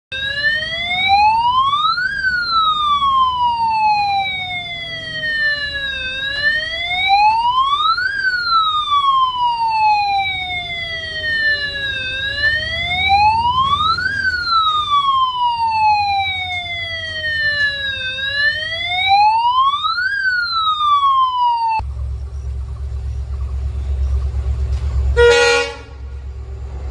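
Electric warning siren wailing, each cycle rising for about two seconds and falling for about four, repeated four times before cutting off suddenly. A low rumble follows, with one short, loud, horn-like blast near the end.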